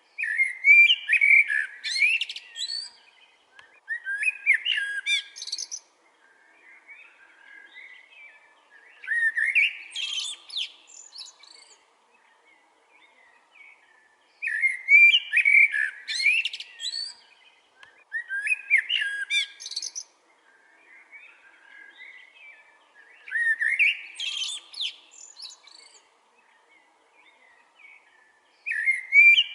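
A songbird singing: seven fast, warbling song phrases of about two seconds each, repeated every four to five seconds, with softer calls in the gaps.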